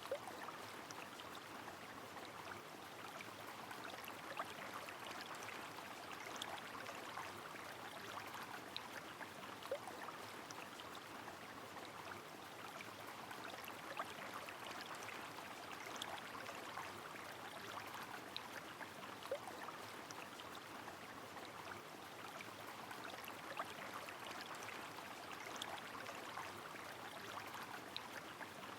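Steady rain with a flowing river: an even wash of water noise, sprinkled with sharp drop ticks and now and then a louder drip.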